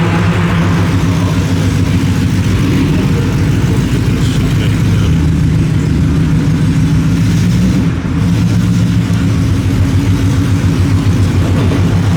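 Car engine running at a steady idle close by, loud, with its pitch holding nearly level.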